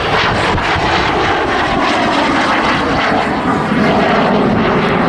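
Jet aircraft flying past in a display, its engine noise loud and steady and growing a little louder about two-thirds of the way in.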